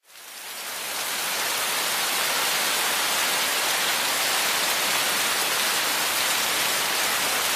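Steady rain falling, an even rushing noise that fades in over about the first second.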